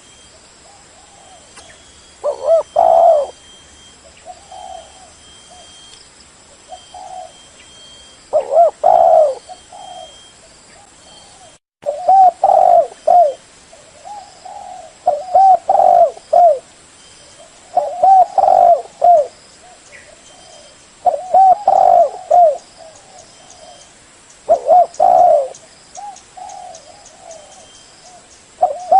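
Spotted dove cooing: loud, repeated coo phrases every few seconds, with fainter coos between them. It is the song of a decoy male used to draw in wild doves.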